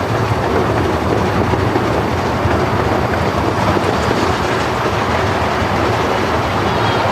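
A 16-inch gauge grand scale steam train running along the track: a steady, loud rumble of wheels on rail.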